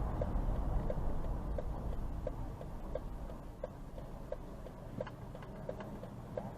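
Vehicle turn-signal flasher ticking evenly, about one and a half ticks a second, over a steady low engine and road rumble inside the cab.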